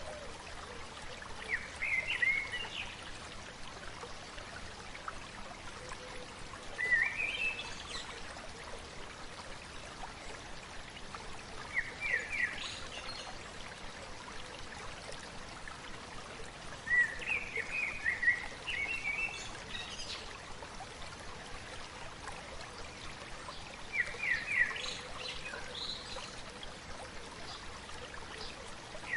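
Steady babbling of a small stream, with a songbird singing a short, quick phrase about every five seconds.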